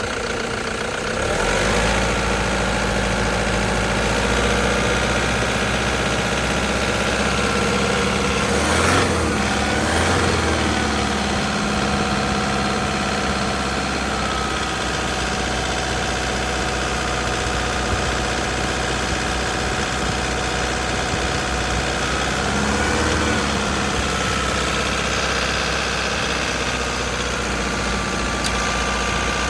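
2012 Toyota Hilux turbo diesel engine idling steadily, briefly revved a couple of times about nine seconds in and once more around twenty-three seconds.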